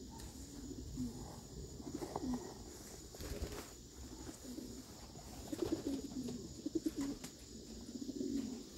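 Racing pigeons cooing, low repeated calls in short clusters, louder about halfway through.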